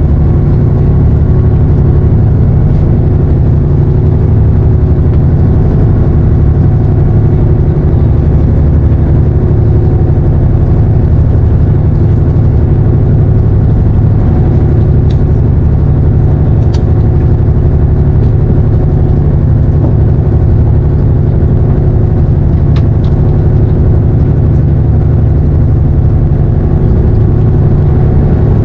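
Engine of a fishing boat running steadily, a loud, even hum with no change in speed. A few faint ticks sound over it partway through.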